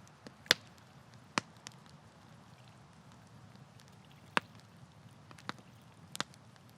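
Campfire crackling: irregular sharp pops and snaps, the loudest about half a second in, over a faint steady hiss.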